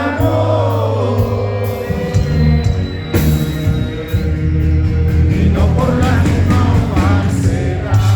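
Live rock band playing a mostly instrumental passage: steady bass and drums with cymbal crashes, a sung phrase tailing off at the start and short vocal or guitar phrases about two-thirds of the way through.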